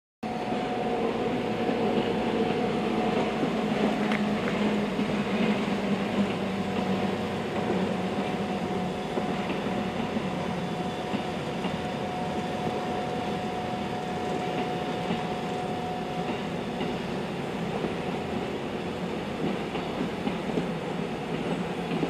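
La Mure railway's electric train running steadily along the track, its wheels rumbling on the rails under a held humming tone that stops about three-quarters of the way through.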